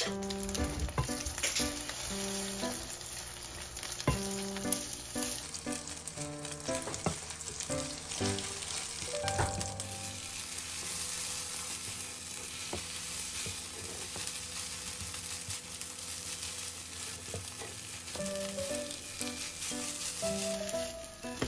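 Egg-coated rice sizzling in oil in a stainless steel frying pan while a silicone spatula stirs and breaks it up, with a few light knocks of the spatula against the pan. The rice is frying into loose, separate grains.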